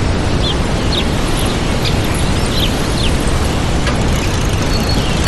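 Waterfall rushing steadily, with small birds chirping over it in short, quick chirps that slide down in pitch, several a second apart.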